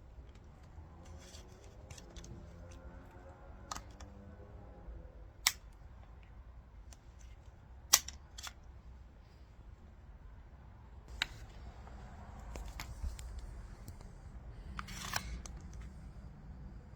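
Sharp clicks and snaps from a phone mount being handled, with its spring-loaded clamp and locking parts clicking, over a low steady hum. The loudest snap comes about eight seconds in.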